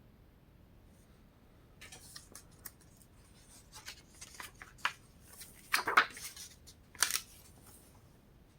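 Glossy paper catalog pages being handled and turned: a run of crisp rustles and clicks, with the two loudest paper swishes near the end.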